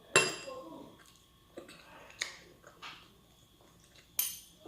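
Cutlery clinking against a plate while eating: a loud ringing clink just after the start, a few softer taps through the middle and another ringing clink near the end.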